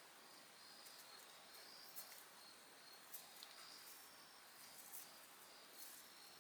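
Faint insects chirping in repeated high trills, with a few faint sharp crackles from a wood campfire.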